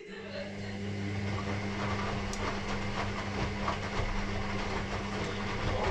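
Electrolux EW6S404WU washing machine working mid-cycle: a steady low hum over a dense rushing and clicking noise, switching on abruptly and cutting off after about six seconds.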